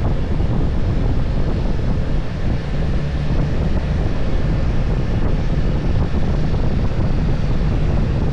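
Steady wind noise buffeting the microphone of a moving motorcycle, with the bike's engine running underneath.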